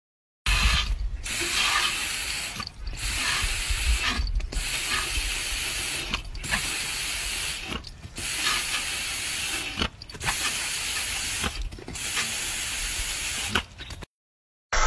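Water spraying with a steady hiss, broken by short dips about every one and a half to two seconds.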